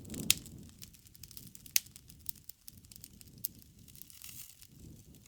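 Wood fire crackling, with irregular small snaps and a few louder pops over a soft low rumble of flame.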